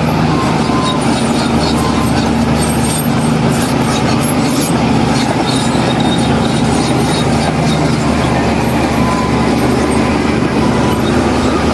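Heavy diesel earthmoving machine running steadily at constant revs, a low even engine drone with faint scattered high clicks above it.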